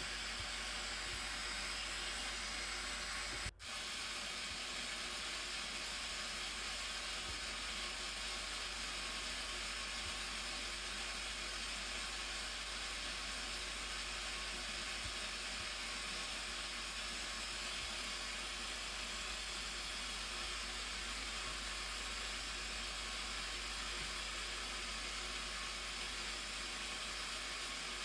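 Steady rushing roar of the Blue Nile Falls (Tis Abay) pouring down, a continuous hiss of falling water that briefly cuts out about three and a half seconds in.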